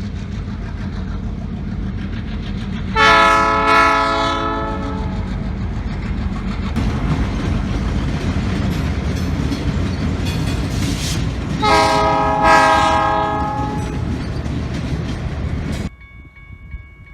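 A Canadian Pacific train's locomotive horn sounds twice, each blast about two seconds long and the second about nine seconds after the first, over the steady rumble and wheel clatter of the moving train. The train sound cuts off abruptly near the end, giving way to faint steady ringing tones.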